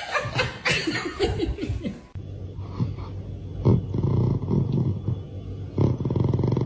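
Laughter trailing off over the first two seconds, then a big cat's low, rapidly pulsing rumbling growl that swells louder a couple of times.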